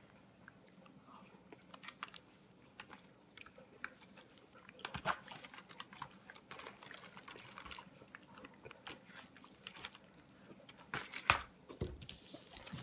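A person eating chicken fettuccine with a fork: quiet chewing with scattered small clicks and scrapes of the metal fork on the plastic tray. A few louder knocks near the end.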